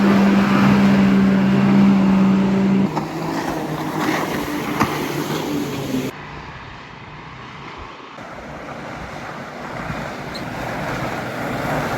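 Boat engines droning steadily as a boat runs through the inlet. The drone drops off about three seconds in, goes quieter for a couple of seconds, then a broader engine noise builds again near the end.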